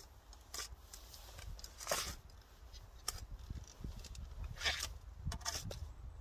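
A garden tool digging into soil around a dahlia plant to lift its tubers: a handful of short strokes, the loudest about two seconds in.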